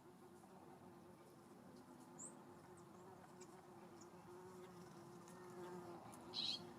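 Faint, steady buzzing of a flying insect, a wavering hum that runs on throughout. A brief high chirp comes about two seconds in, and a louder short bird call near the end.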